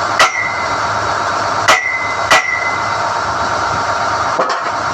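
SDH-1600 core drill rig running steadily while NQ drill rods are pulled from the hole, with three sharp ringing metal-on-metal clanks from the steel rods, two of them close together, and a lighter knock near the end.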